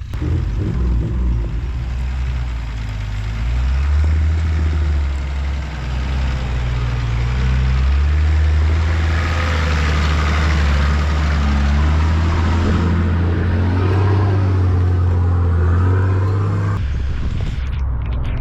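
Four-wheel-drive vehicle's engine revving hard under load as it drives up a rough track. The revs climb at about 4 and 8 seconds in, hold high, then ease off sharply near the end.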